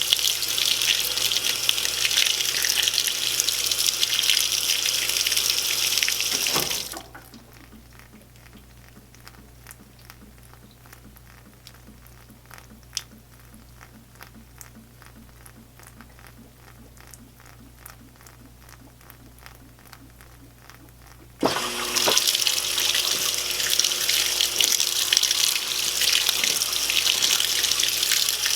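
Spray rinse in an Admiral belt-drive top-load washing machine: water jets hiss into the tub and cut off about seven seconds in. A quieter stretch with faint, regular ticking follows. The spray starts again abruptly about three-quarters of the way through.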